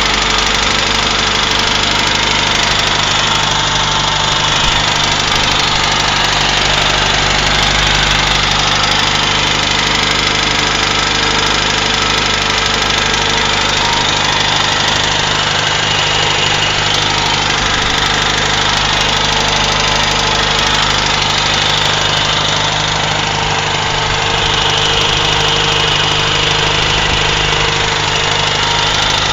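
UZAM 1.5 inline four-cylinder engine running steadily, with a knock that sounds as if something is hanging loose and knocking inside. The knock appeared in the engine after a rebuild, and its cause is unknown.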